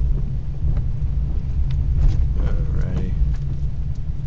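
Pickup truck driving slowly, its engine and road rumble heard from inside the cab as a steady low drone, with scattered light ticks.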